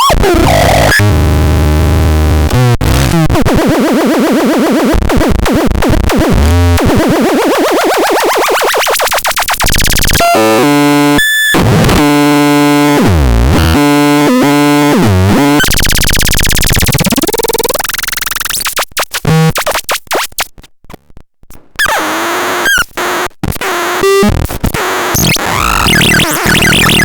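Megastron Scrapton S1 noise synth making loud, harsh electronic noise: sweeping pitch glides and stuttering, warbling tones. About two-thirds through it turns choppy, cutting in and out, with a brief drop-out before it carries on.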